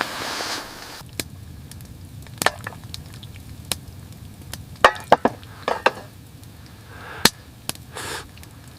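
A series of sharp knocks, irregularly spaced, with three in quick succession about halfway through.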